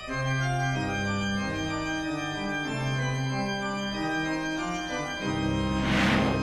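Dramatic organ music score of held chords that shift every second or so, with a short noisy whoosh near the end.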